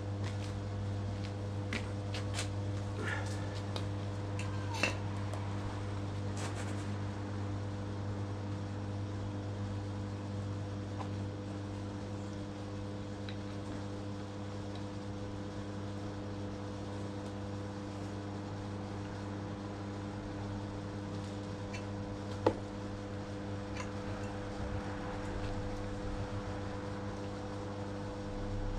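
A steady electrical hum with a few light clicks and clinks, several in the first seven seconds and one sharp click past the middle.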